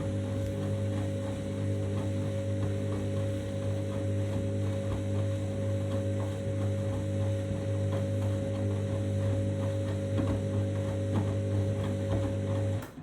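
Candy washing machine running its main wash: a steady low motor hum with faint, irregular light ticking, which stops suddenly near the end.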